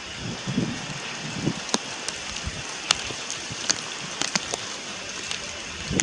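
Juvenile Malayan night heron giving short, low calls, several in the first two and a half seconds, over a steady hiss. Scattered sharp ticks are heard throughout.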